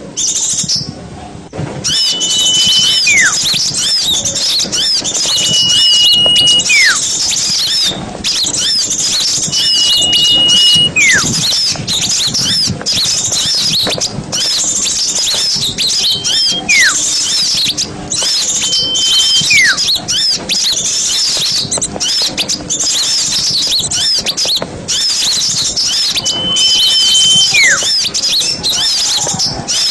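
Dense, continuous high-pitched chattering and twittering of a flock of small birds. A level whistle followed by a short falling whistle recurs every few seconds over the chatter.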